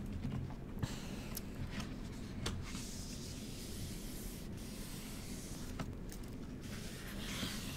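Paper rubbing and rustling as the pages of a book are handled and turned, with a few light clicks and taps.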